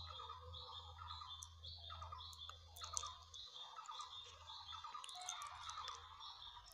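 Faint bird chirping, notes repeating about twice a second, with a few sharp clicks.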